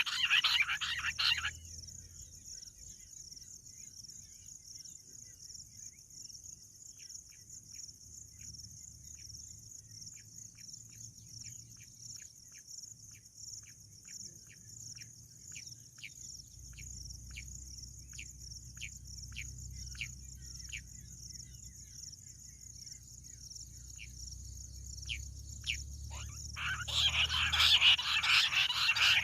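Bush quail calling: a long series of short, sharp notes about two a second, growing stronger toward the middle, with a loud dense chattering chorus at the very start and again near the end, over a steady high insect buzz.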